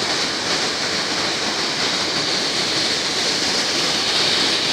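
Rushing river water: a steady, loud flow.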